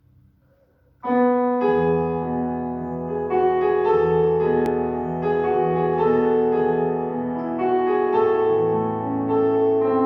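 Slow keyboard music of held chords that change every second or two, beginning suddenly about a second in after near silence.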